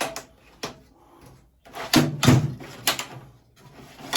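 Knocks and clatters of tools and objects being moved and set down while rummaging through a workshop for a drill: a scattered run of separate knocks, busiest about two seconds in.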